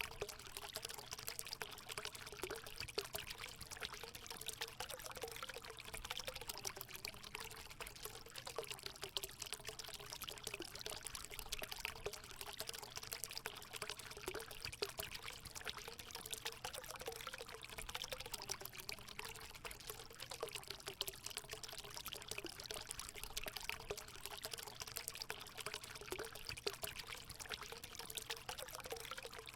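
Hot-spring water running and pouring steadily into a pool, a continuous splashing rush with a wavering gurgle under it.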